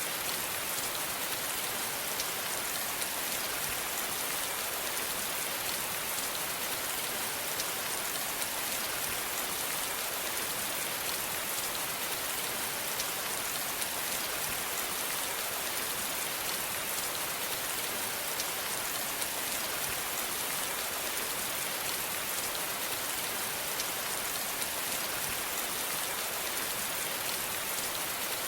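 Steady rain falling, an even hiss with many small drop ticks, with no thunder.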